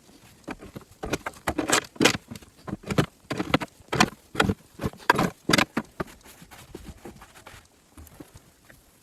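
Snow crunching and scraping in a quick, irregular run of strokes for about five seconds, then it dies down.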